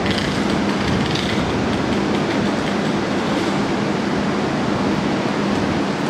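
JR East 701 series electric train running slowly along the platform: a steady rolling rumble with a low hum, and a few wheel clicks over rail joints in the first second or so.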